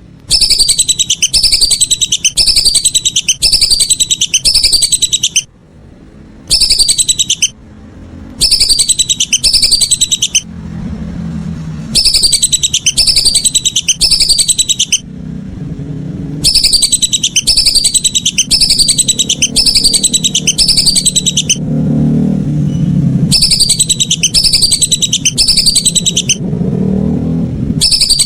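Lesser whistling duck (belibis) calls played as a lure: loud, high whistled notes, each falling in pitch, repeated quickly in runs of several notes with short pauses between runs. A low rumble runs underneath in the second half.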